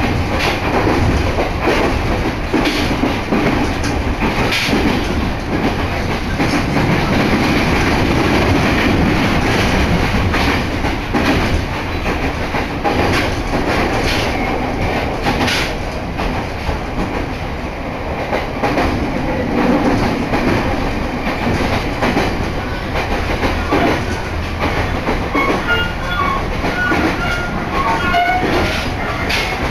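Running noise inside a JR Narita Line train carriage, with the wheels clacking over the rail joints.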